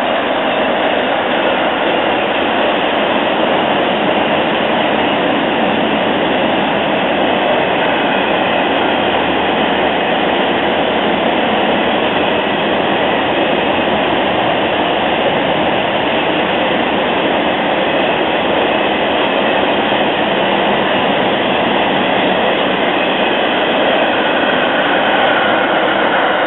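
A freight train of empty flat wagons behind an electric locomotive rolling past close by: the loud, steady noise of its wheels running on the rails.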